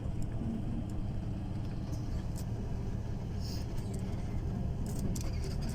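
A car driving: steady low rumble of engine and road noise, with a few faint clicks.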